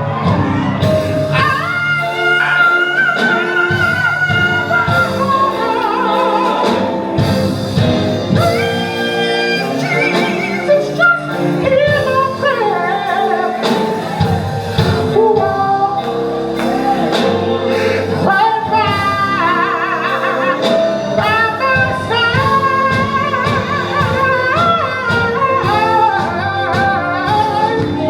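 Live gospel quartet music: voices singing over a band with a steady beat.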